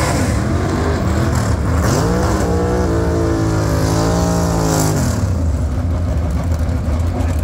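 Drag car's engine revving up and holding high revs for about two seconds during a burnout, then dropping back sharply to a low idle rumble.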